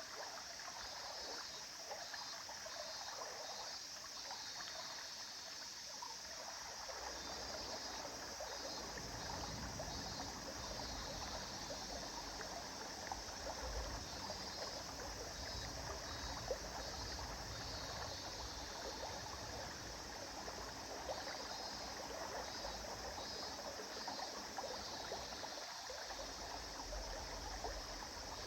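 River water running steadily over stones, with a low rumble underneath from about seven seconds in.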